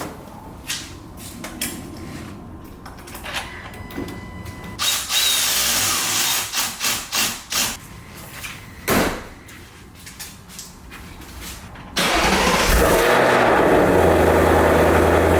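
Scattered clicks and short bursts of tool noise, then about twelve seconds in a Ford Mustang's engine starts and settles into a steady idle, its first start after the battery was reconnected.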